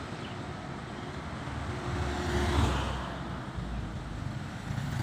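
Train set being shunted: a low rumble and running noise that swells about two seconds in, peaks, then eases off.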